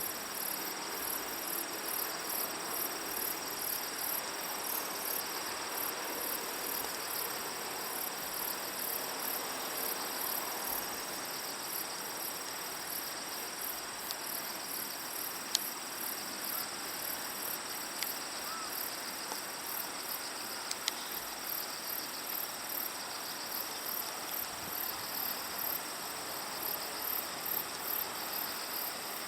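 A steady chorus of insects chirping, with fast, even, pulsing trills and high steady tones, over a steady rushing noise. A few faint clicks come in the middle.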